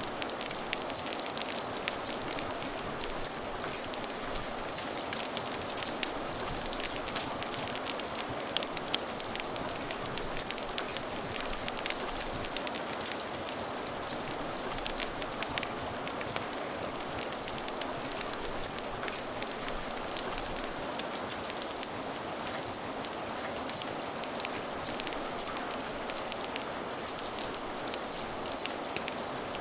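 Steady rain with a crackling fire: an even hiss of rainfall dotted throughout with many small, sharp crackles and ticks.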